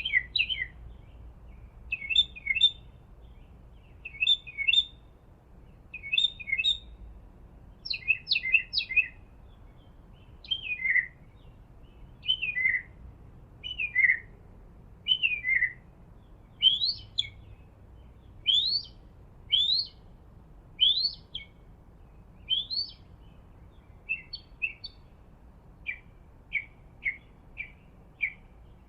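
A songbird singing short whistled phrases about once a second, the notes sliding down in pitch through the middle and sliding up later on, then turning into a quicker run of short chirps near the end.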